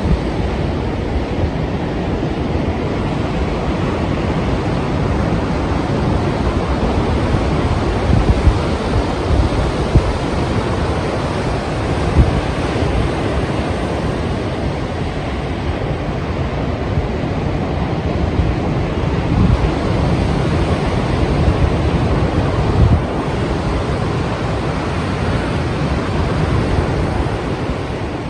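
Strong sea surf breaking and washing in a continuous rush, with wind buffeting the microphone.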